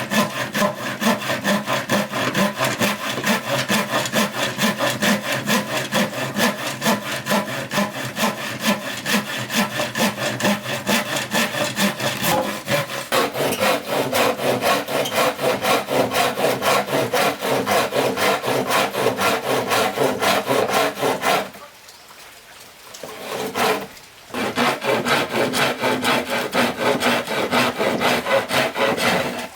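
Hand saw cutting through bamboo in quick, steady back-and-forth strokes. The sawing pauses for about two seconds past the two-thirds mark, then resumes.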